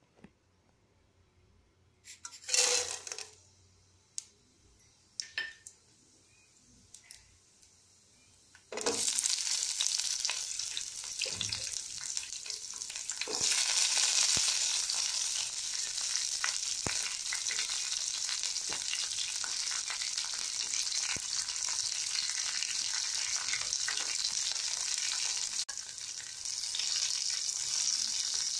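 Tempering frying in hot oil in an aluminium kadai: mustard seeds, dals, curry leaves, chillies and sliced onion sizzling with scattered crackles. A few isolated clicks at first, then the sizzle starts suddenly about a third of the way in as the ingredients hit the oil, and grows louder a little later.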